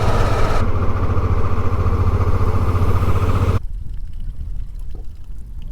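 Honda Deauville V-twin motorcycle engine running at a steady pace while riding, with wind and road noise over it. The sound cuts off abruptly about three and a half seconds in, leaving only a faint low rumble.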